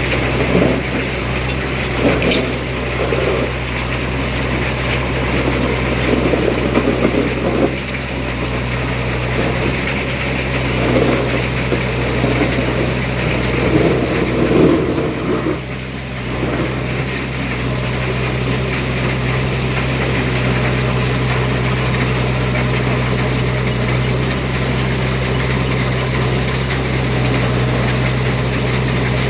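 Heavy diesel engine running, with uneven surges in the first half, then settling into a steady idle.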